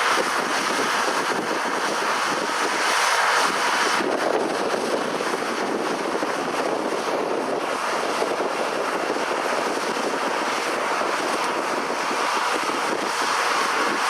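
Steady rushing noise of tractor-drawn peanut combines working in the field, mixed with wind on the microphone.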